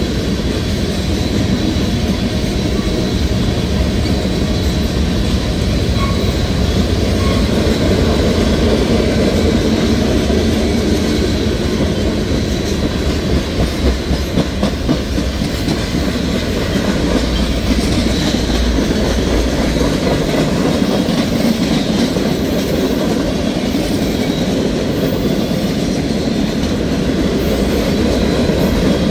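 Freight train's tank cars and boxcars rolling steadily past: a continuous rumble of steel wheels on rail with rapid clickety-clack over the rail joints.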